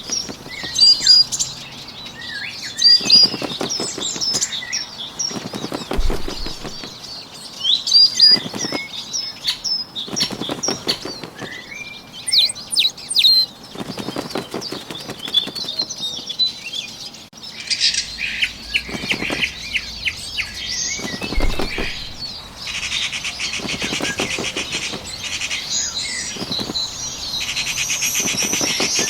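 Bird wings flapping in short rapid bursts every couple of seconds, with small birds chirping and twittering throughout. In the last several seconds a dense, high buzzing trill takes over.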